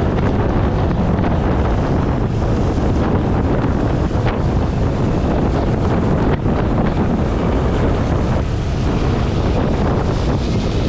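Wind blowing over the microphone of a GoPro Hero 8 on a moving motorcycle: a loud, steady noise, heaviest in the low end.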